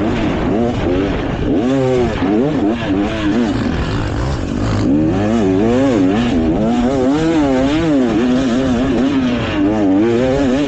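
Beta 450 RX four-stroke dirt bike engine being ridden hard on a trail, its revs rising and falling again and again as the throttle is opened and closed through turns.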